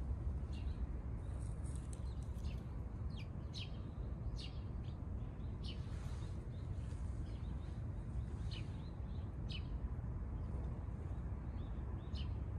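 Small birds chirping: short, sharp, high notes that fall in pitch, coming every second or so, over a steady low rumble.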